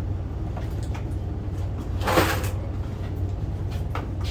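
A single short clunk with a rattle, about two seconds in, over a steady low hum.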